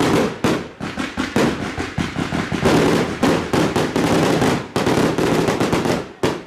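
Fireworks going off in a rapid barrage of sharp bangs, several a second, that stops abruptly near the end.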